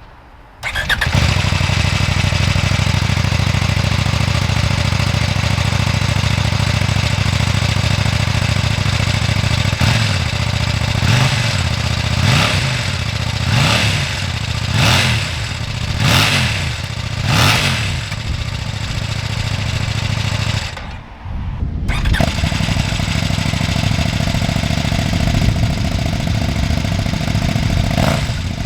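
Kove 800 Rally's parallel-twin engine starting up about a second in and idling. Partway through it is revved in about six short throttle blips roughly a second apart. After a brief break it idles again, with a couple more blips near the end.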